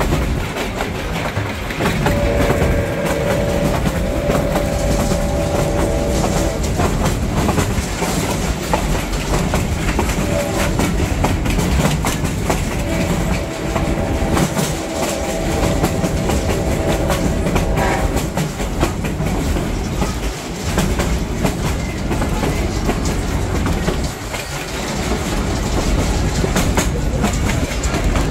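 A passenger train rolling along jointed track, heard from an open-sided car: steady rumble and clickety-clack of the wheels. Twice, for about four and five seconds, the locomotive's horn sounds a long chord ahead.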